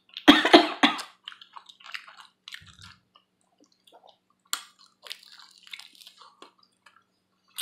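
Chewing and lip-smacking of someone eating saucy buffalo wings, wet mouth clicks loudest in the first second, then scattered faint smacks and one sharp click a little past halfway.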